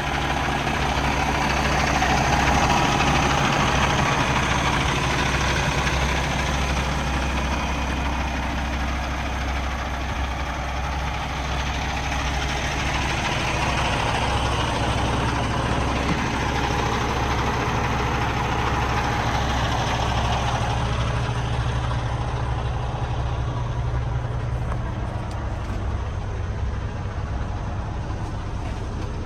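Cummins X15 diesel engine of a Peterbilt 389 truck idling steadily.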